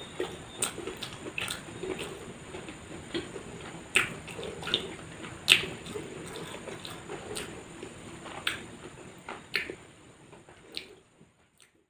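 Close-miked chewing and wet mouth sounds, with irregular sharp smacks and clicks, thinning out near the end.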